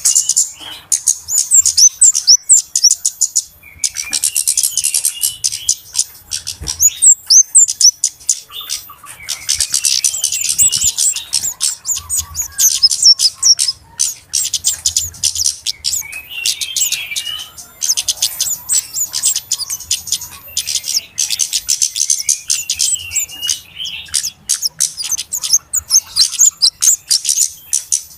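Flowerpecker (kemade, cabe-cabean) calling noisily: runs of fast, high-pitched chittering and ticking notes lasting a few seconds each, broken by short pauses, with some brief gliding whistles. It is a lure call meant to draw other birds in.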